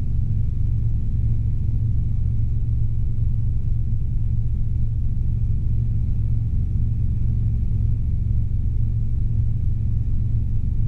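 Steady low drone of a Robinson R22 helicopter in flight, heard from inside the cabin: its four-cylinder piston engine and rotors running evenly.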